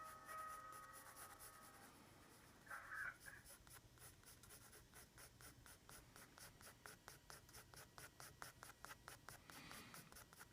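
Faint, quick, evenly repeated strokes of a drawing tool scratching on paper as an illustration is sketched, several strokes a second. Soft music fades out in the first couple of seconds.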